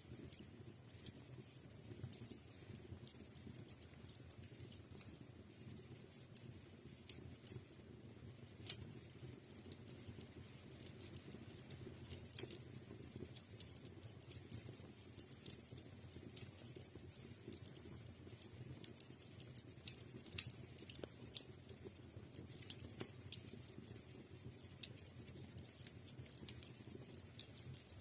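Wood fire crackling in a fireplace, with faint irregular pops and snaps over a low steady rumble. A few louder pops stand out now and then.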